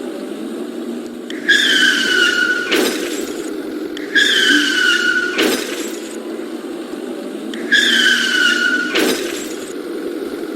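Small RC truck's electric drive whirring steadily. Three times it is joined by a high squealing whine about a second long, pitch sliding slightly down, each ending in a sharp click.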